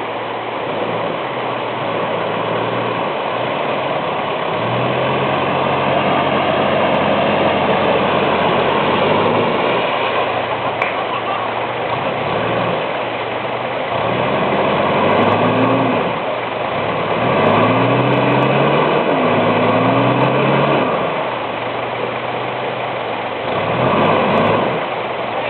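Off-road vehicle's engine labouring while stuck in a river crossing, revving up and dropping back several times in the second half as it tries to pull free, over a steady rushing noise.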